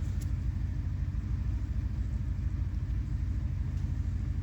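Steady low rumble with no sudden sounds.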